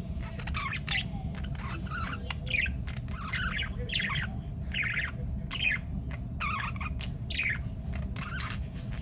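Budgies chirping and squawking in a quick series of short calls over a steady low hum.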